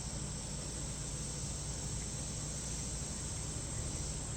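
Steady, unbroken chorus of insects shrilling high, with a low steady hum beneath it.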